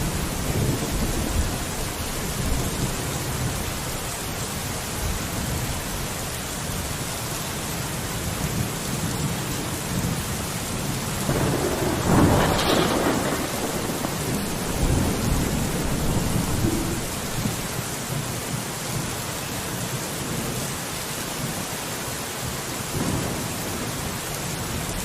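Steady rain falling on a window. A low rumble runs under it, and there is a louder surge about halfway through.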